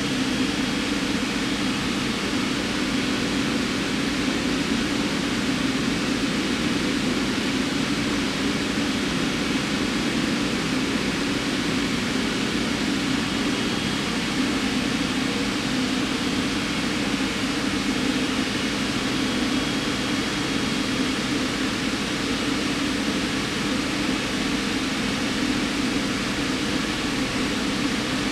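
Steady, unchanging hum and hiss of a powered-up CNC machine and its cooling fans and hydraulics, with no starts, stops or knocks.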